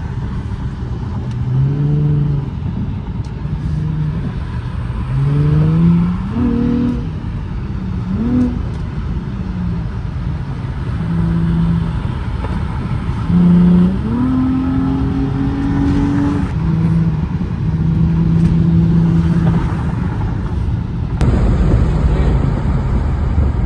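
Infiniti G35's 3.5-litre V6 revving repeatedly while driven hard, its pitch climbing, holding at high rpm, then dropping before climbing again.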